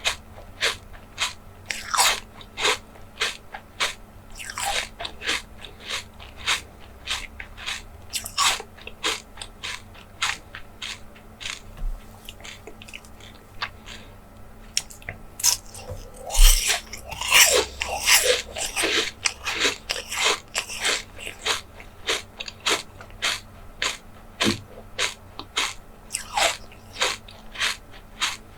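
Close-miked chewing of soft jelly desserts: a continuous run of crisp, wet clicks, about two to three a second, thickening into a louder flurry about halfway through.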